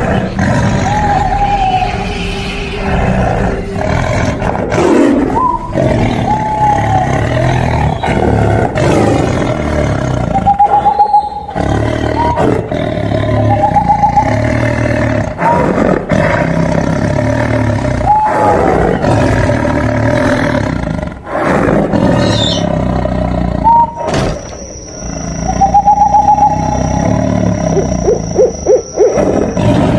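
Tiger roaring and growling again and again, broken by abrupt cuts, with short rising-and-falling calls every few seconds.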